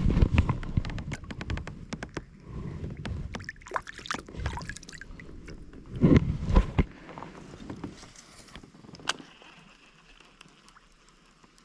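Knocks, thumps and clatter of a kayak and fishing gear being handled, with the heaviest thumps in the first second and again about six seconds in, then a few lighter clicks as it settles.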